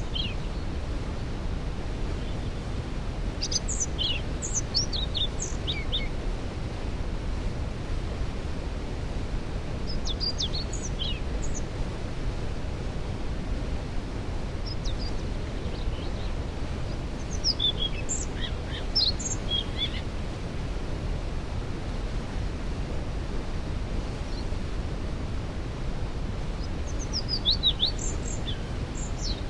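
Waterfall thundering as a steady, even rush of water, with songbirds singing short, high, quick phrases over it about half a dozen times.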